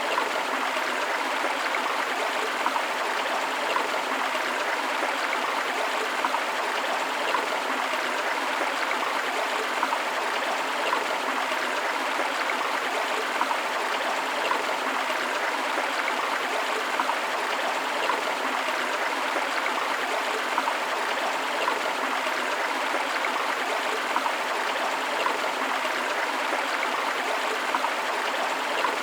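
A forest river flowing steadily over rocks, an even rushing of water with small splashes and gurgles throughout.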